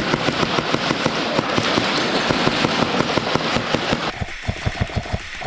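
Airsoft guns firing in a dense, rapid crackle of many overlapping shots; about four seconds in it gives way to one gun rattling on in steady full-auto, about eight shots a second.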